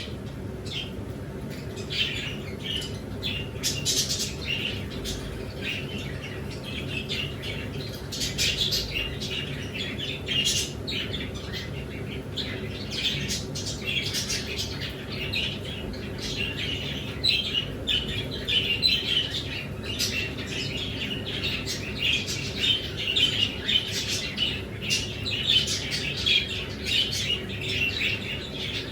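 Many small pet birds chirping and squawking at once, a dense, continuous chatter of short calls over a low steady hum.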